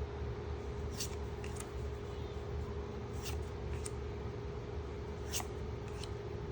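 Pokémon trading cards being slid one by one from the front of a freshly opened pack's stack to the back, a short paper swish, often two close together, about every two seconds, over a steady electrical hum.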